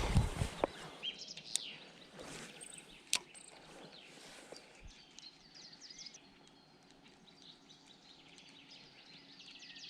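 Small birds chirping and twittering in short high notes. There are a few heavy knocks right at the start and a single sharp click about three seconds in.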